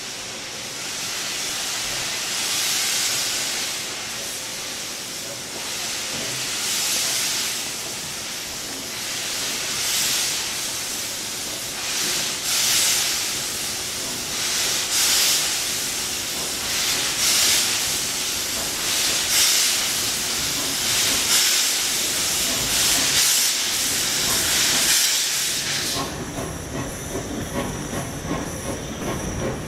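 Steam locomotive pulling away, each exhaust beat a loud hiss of steam, about ten beats coming steadily quicker. Near the end this gives way to rolling train noise with a thin, high steady whine.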